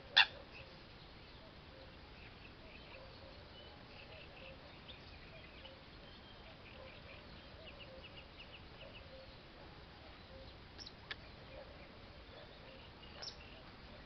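Faint, scattered chirps of small birds, with a single sharp, loud sound just after the start and a few softer ones later on.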